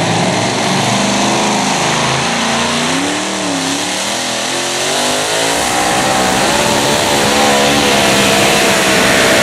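Modified tractor-pulling tractor's engine running hard during a pull. Its pitch wavers up and down for the first few seconds, then settles into a steadier, slightly higher note about halfway through.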